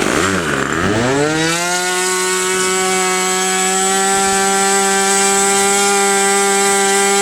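Super Tiger two-stroke glow engine of an RC model airplane running at high throttle. It dips briefly, climbs, then holds a steady high buzzing note.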